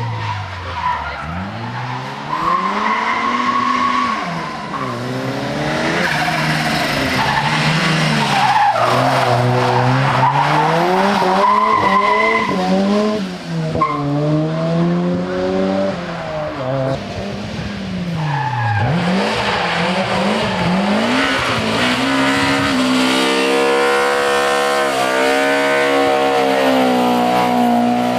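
Rally car engine revving hard, pitch climbing through each gear and dropping as the car brakes and accelerates again, over and over. Near the end it holds a steady high rev for a few seconds.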